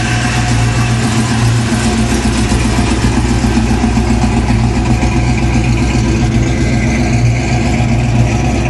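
An engine idling steadily and loudly, its pitch holding even throughout.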